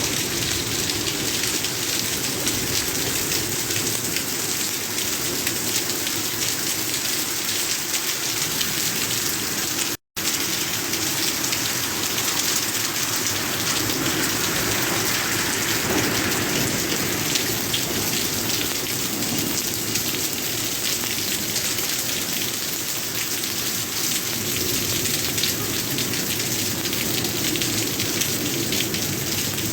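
Steady rain falling, a dense even hiss of drops on surfaces. The sound cuts out completely for a split second about ten seconds in.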